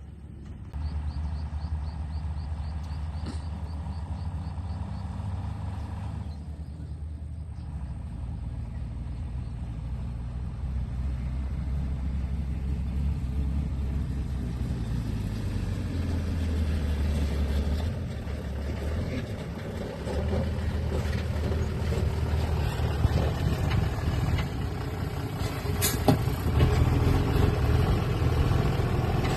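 Heavy truck engine running with a low rumble that rises and falls in level several times, with a brief sharp click near the end.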